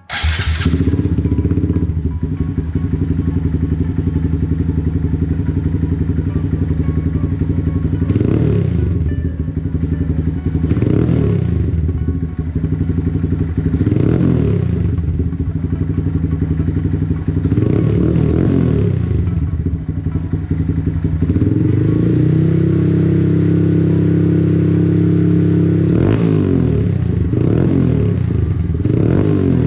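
Honda Grom's 125cc single-cylinder four-stroke engine, breathing through a newly fitted aftermarket dual exhaust, starts right away and idles. The throttle is blipped about seven times, with the revs held a little higher for a few seconds past the middle.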